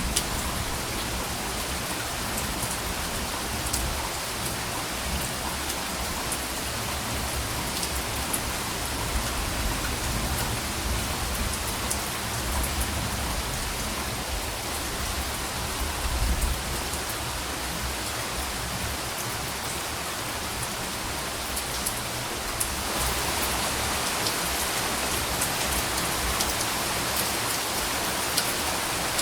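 Steady rain falling, with scattered drop splashes and occasional faint low rumbles of distant thunder. The rain grows slightly louder about three-quarters of the way through.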